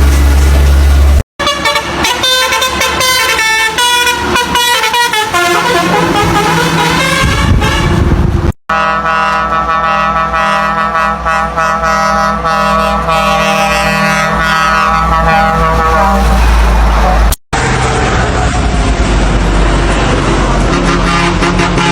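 Truck melody air horns of the Basuri type sounding loud multi-note horn calls, in separate clips joined by abrupt cuts: the notes slide down in pitch in one, a long chord is held in another.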